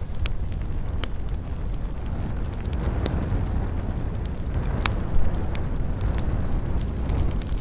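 Wood fire burning in a fireplace: a steady low rumble with scattered sharp crackles and pops, the loudest pop about five seconds in.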